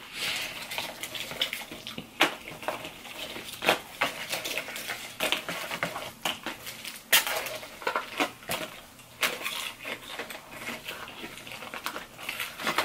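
Close-miked chewing of crunchy fried okra: irregular crunches and crackles, with small clicks from food being picked out of a cardboard takeout box.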